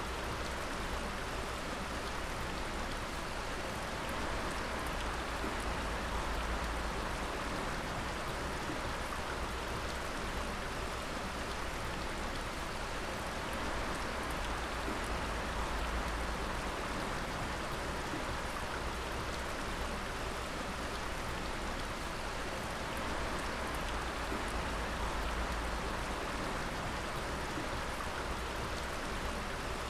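Water dripping: a dense, steady patter of many drops over a continuous watery hiss.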